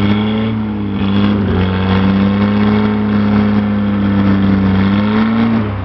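1941 Ford Anglia's engine being revved. It rises, dips briefly, then holds at a higher speed for about three and a half seconds, and near the end drops back toward idle.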